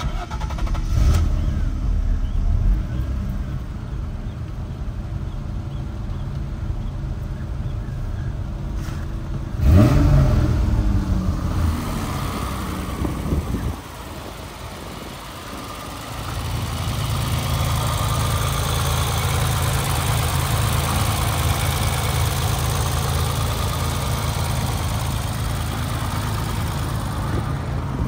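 1989 BMW E30 325i's 2.5-litre inline-six starting and settling into idle, with one quick blip of the throttle about ten seconds in. In the second half it idles steadily, heard close to the open engine bay.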